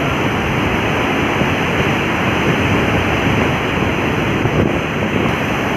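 Loud, steady rush of swollen floodwater pouring without a break.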